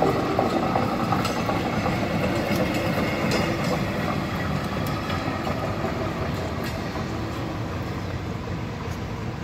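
A yellow railway maintenance vehicle running past on the track: a loud, steady rush of rail noise with scattered clicks, easing off slightly as it moves away.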